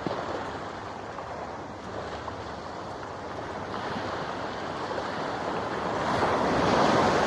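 Small waves washing against the shore, with wind buffeting the microphone; a steady rushing that swells louder near the end.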